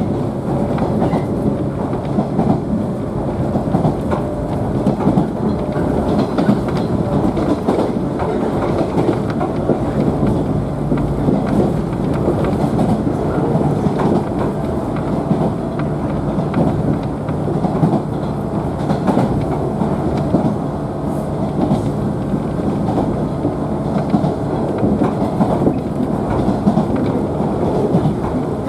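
Interior running noise of a JNR 113 series electric train's motor car at line speed: a steady rumble of steel wheels on the rails and the car's running gear, continuous throughout.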